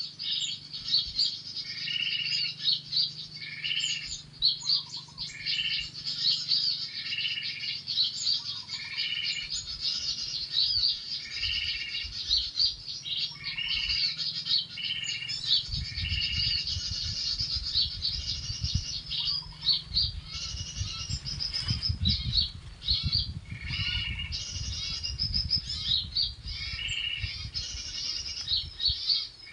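Small songbirds chirping and calling without a break. One call repeats at an even pace about once a second. A low rumble joins about halfway through.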